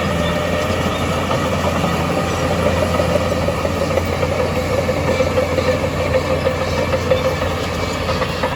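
Diesel engine of heavy earthmoving machinery running steadily, its drone growing louder from about three seconds in and easing off near the end.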